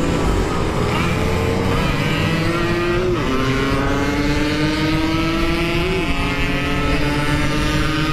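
Yamaha RX-King two-stroke single-cylinder motorcycle accelerating under way, its engine note climbing steadily in pitch. The pitch drops at a gear change about three seconds in, then climbs again, with a brief dip near six seconds.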